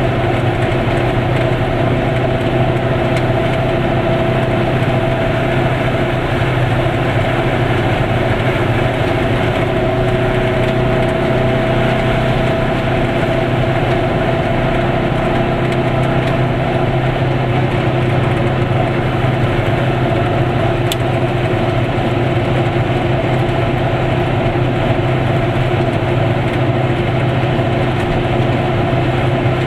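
Goggomobil's small two-stroke twin-cylinder engine running at a steady cruising speed, heard from inside the cabin as a constant drone with tyre and road noise.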